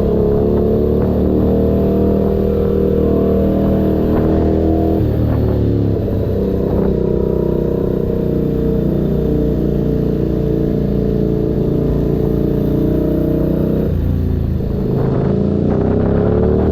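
Keeway SCR 250 V-twin engine with a Racefit free-flow exhaust running under way, its note holding steady for long stretches. The pitch shifts about five seconds in and again near the end, then climbs as the engine revs up.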